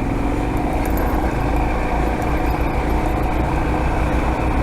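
Single-cylinder dual-sport motorcycle engine running steadily with an even, low thumping.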